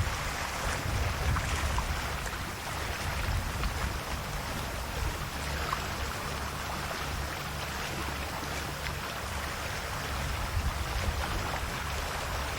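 Calm sea waves lapping and washing gently on the shore: a steady wash and fizz of water with a soft low rumble underneath.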